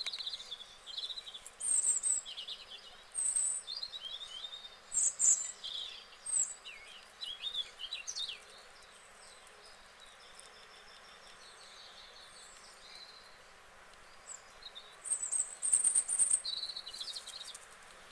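Birds chirping and singing in clusters of short, high, warbling notes, with a quieter stretch in the middle.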